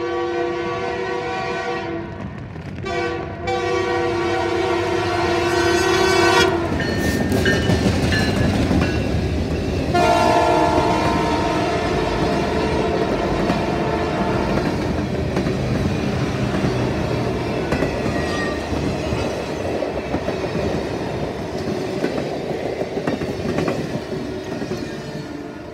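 Canadian Pacific diesel locomotive sounding its air horn as it approaches, with a short break about two and a half seconds in. The locomotive passes loudly about six to seven seconds in, and there is another horn blast about ten seconds in. Then comes the rumble and clickety-clack of the train's cars rolling past, fading near the end.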